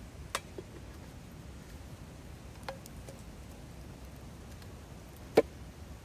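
Three sharp clicks or knocks, the loudest about five and a half seconds in, with a few fainter ticks between them over a steady low background hiss.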